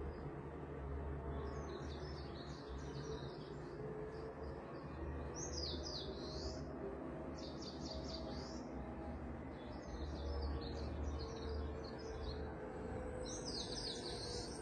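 Birds chirping in short clusters of quick high notes every few seconds, over a steady low background rumble.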